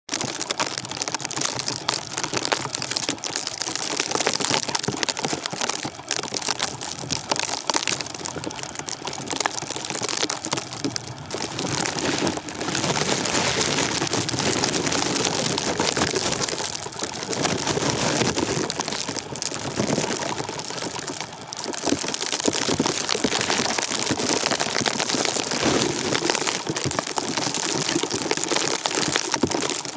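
Blizzard: a steady rushing hiss of wind and driven snow, full of small ticks, swelling and easing in gusts.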